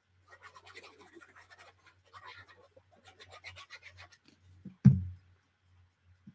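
Glue stick rubbed back and forth over paper in quick scratchy strokes, then a single thump about five seconds in.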